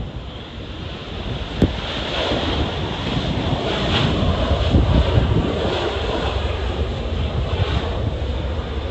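Jet airliner engines passing, the noise swelling to its loudest about four seconds in and then easing. Gusty wind buffets the microphone with a low rumble throughout. There is a brief knock about one and a half seconds in.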